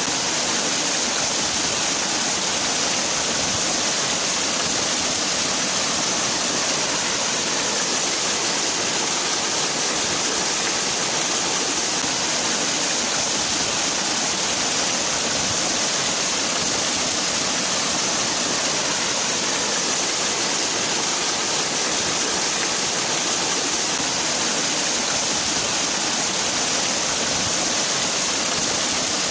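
Waterfall: water falling and splashing in a steady, unbroken rush with a strong hiss and no change in level.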